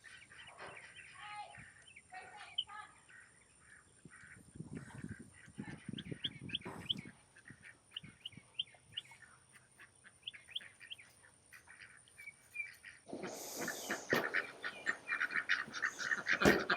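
Farm poultry calling: scattered short high chirps, then about thirteen seconds in a louder, dense run of rapid calls from the waterfowl.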